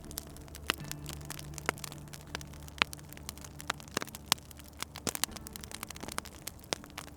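Wood fire crackling, with irregular sharp pops several times a second, over soft background music of low held notes.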